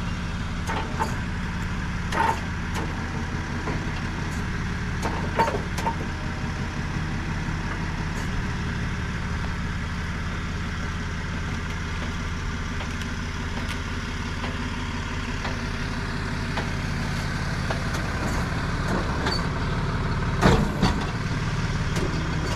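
Tow truck engine idling steadily, with a few short knocks, the loudest about twenty seconds in.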